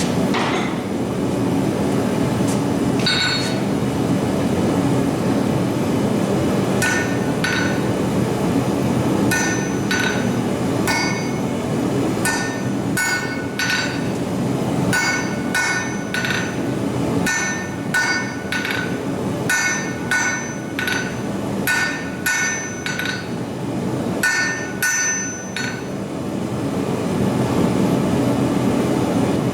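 Hand hammer striking steel on an anvil during forging, each blow giving a short metallic ring. The blows come in quick runs from about seven seconds in until near the end, over a steady low hum.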